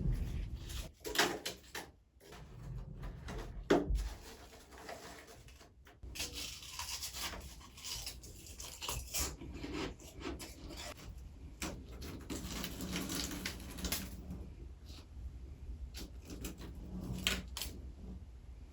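Freezer frost crunching close to the microphone: uneven bursts of crisp crackle with a few sharp clicks, the densest stretch in the middle.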